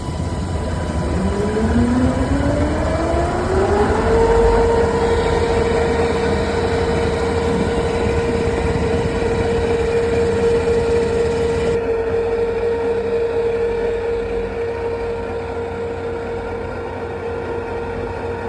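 Rescue boat's davit winch paying out wire as the boat lowers under its own weight: a whine that rises in pitch over the first few seconds as the drum speeds up, then holds at one steady pitch, over constant ship machinery noise.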